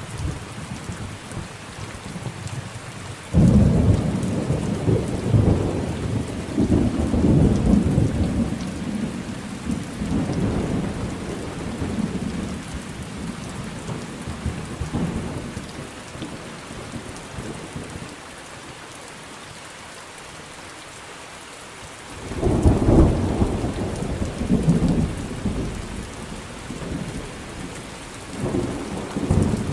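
Thunderstorm: steady rain with rolling thunder. A low rumble breaks in suddenly a few seconds in and rolls on in swells for over ten seconds, a second starts suddenly past the middle, and a third begins near the end, with only rain between them.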